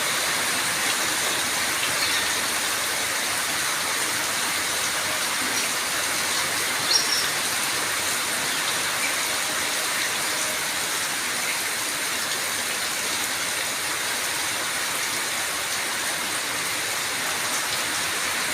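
Steady rain falling, an even hiss with a few faint, short high-pitched sounds.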